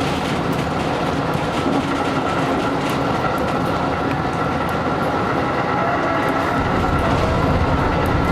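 JR electric train running on the rails, heard from inside the car: a steady rumble of wheels on track with a steady high whine over it, as the train runs in toward a station stop.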